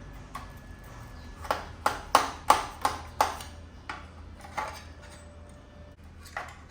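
Metal bracket being hammered: a quick run of about six sharp ringing blows, about three a second, then three more single strikes spaced out toward the end.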